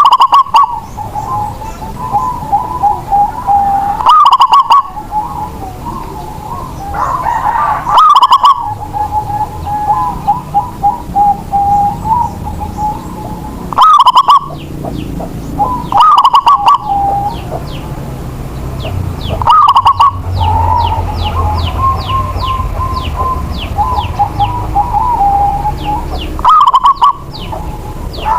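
Zebra dove (perkutut) cooing: loud, short coo phrases repeat every few seconds. A steady warbling of other birds runs between them, and a quick run of high chirps comes in the second half.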